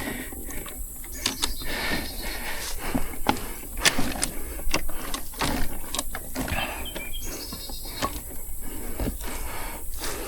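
Two-stroke Suzuki dirt bike engine being kicked over by hand, a string of irregular clicks and clunks from the kickstarter and drivetrain with no firing. The engine turns over with no compression, the sign of a blown-up motor.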